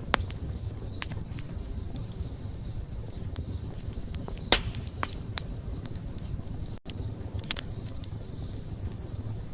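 Wood campfire crackling: sharp irregular pops and snaps over a steady low rumble of burning, with the loudest pop about halfway through.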